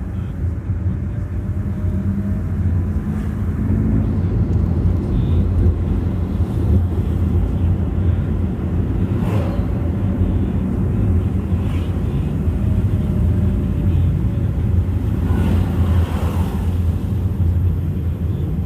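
Steady low rumble of a moving road vehicle: engine and road noise, with wind buffeting the microphone.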